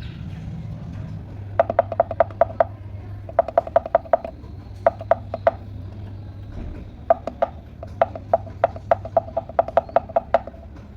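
Lovebird pecking a hard object with its beak: runs of rapid sharp taps, in five bursts, over a steady low hum.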